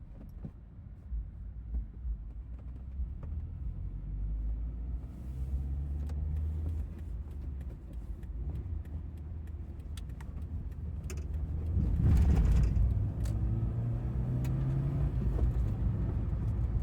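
Car engine and road noise heard from inside the cabin while driving, a steady low rumble with a few light clicks, growing louder about twelve seconds in.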